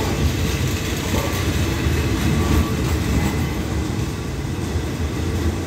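Passenger-parcel train carriages rolling slowly along the track as the train pulls out, a steady deep rumble of wheels on rails that eases slightly after about four seconds.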